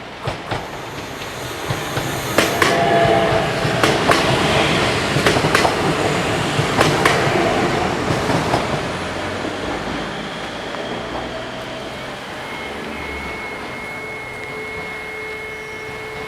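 Train passing over a level crossing: wheels clacking over the rail joints and crossing, loudest in the middle, then the rumble fades as it moves away.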